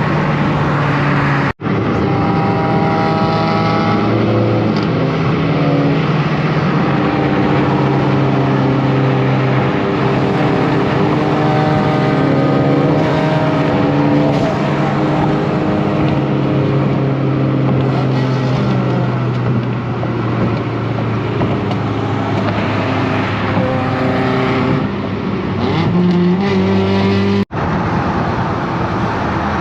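Car engine and exhaust droning steadily at cruising speed, with the pitch rising briefly near the end. The sound cuts out for an instant twice.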